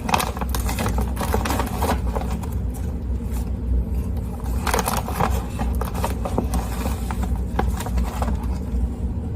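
A metal measuring spoon scooping sugar and tipping it into a bowl: repeated scrapes and clinks, with the spoon set rattling like keys, over a steady low rumble.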